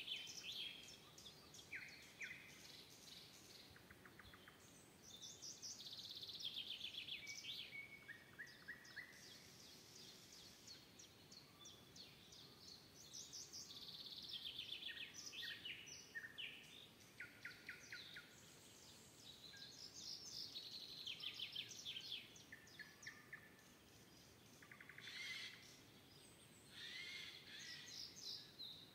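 Faint songbird chorus: several birds singing overlapping high, rapid trilled phrases, each a second or two long, one after another.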